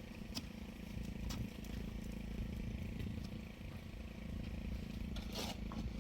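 An engine running steadily with a low, even hum, with a few light clicks and a short scrape about five and a half seconds in.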